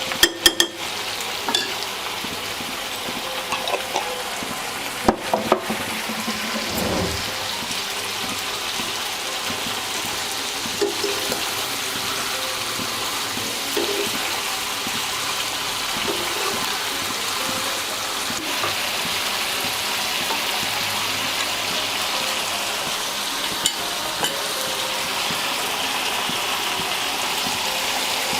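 Spiced onion-tomato masala paste sizzling in a pan as it is fried down, with a few clicks of a spoon against the pan in the first several seconds.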